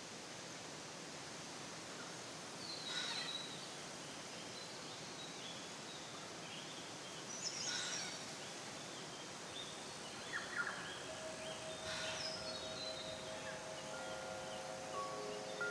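Forest ambience: a steady hiss with scattered bird calls and chirps. About two-thirds of the way in, wind chimes start ringing with several sustained tones that overlap the birds.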